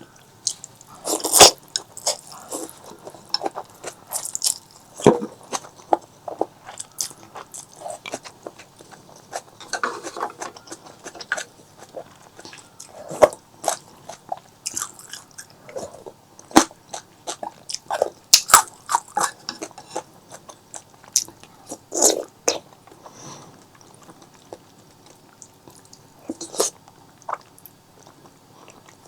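A person eating: bites and chewing, with irregular wet clicks and smacks.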